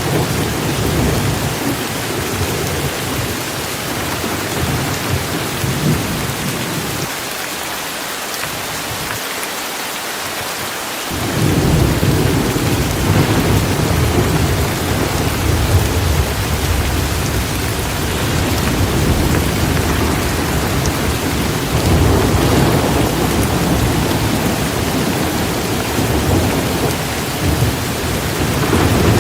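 Torrential rain falling steadily with rolling thunder rumbling underneath. The low rumble dies away for a few seconds about a quarter of the way in, then comes back louder.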